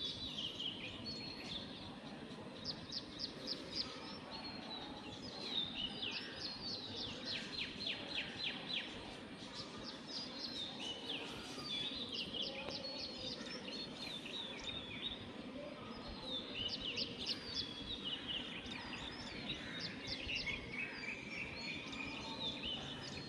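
Small birds chirping and twittering over a steady background hum, with frequent quick trills of rapid repeated notes.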